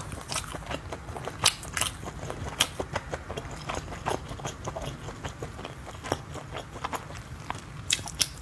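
A person chewing and biting grilled, spiced skewered meat: wet mouth sounds with irregular sharp crackly clicks, a few louder bites standing out, one near the end as she bites into a skewer.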